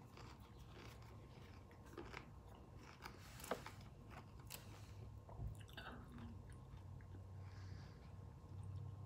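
Faint chewing of a bite of crunchy shrimp tostada, with scattered soft crunches and mouth clicks, the sharpest about three and a half seconds in. A low steady hum runs underneath.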